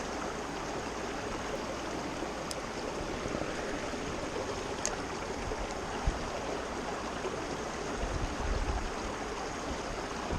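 Creek water running steadily, with a couple of faint ticks and a brief low rumble near the end.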